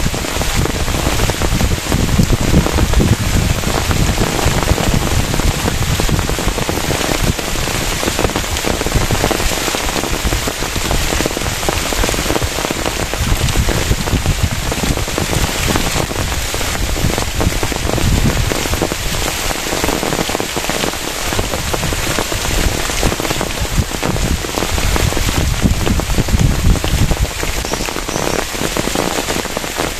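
Heavy rain falling steadily, a dense unbroken mass of drops striking the surroundings.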